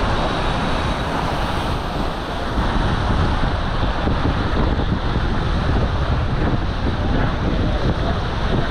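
Steady, loud rush of floodwater released through the dam's open spillway gates.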